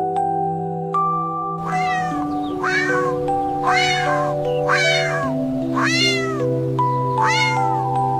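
A cat meowing six times, about once a second, starting about a second and a half in, over gentle background music with soft sustained keyboard notes.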